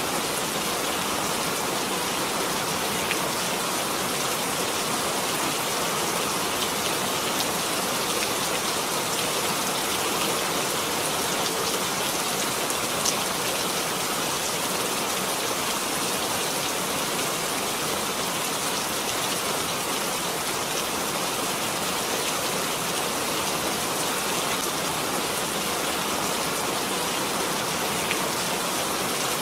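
Steady rain falling, a constant even hiss with scattered individual drop ticks.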